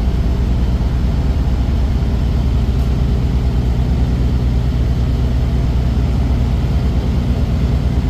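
Steady low rumble of a truck's engine and road noise while driving, even and unchanging throughout.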